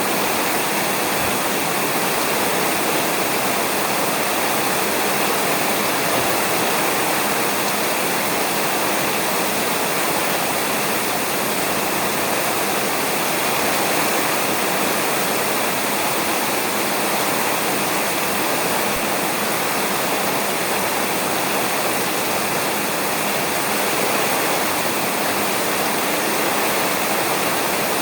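Steady, heavy rain falling on a roof: a dense, even hiss with no thunder.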